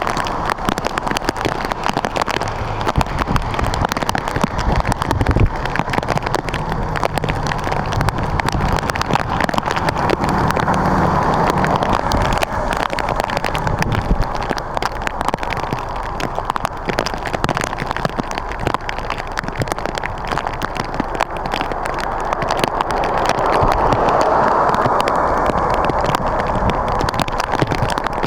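Steady crackling hiss of wet precipitation falling on surfaces outdoors, with a low engine hum from a vehicle about six to twelve seconds in.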